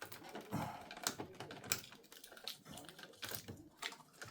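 Small plastic clicks and light rattling, a dozen or so at an uneven pace: ink cartridges being unclipped and lifted out of an Epson inkjet printer's carriage.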